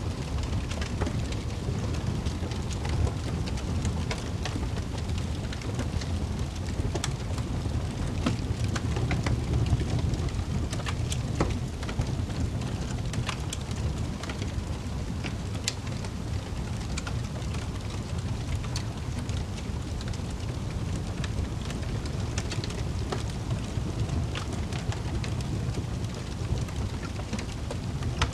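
Wood fire crackling in a fireplace: frequent sharp pops and crackles over a steady low rumble.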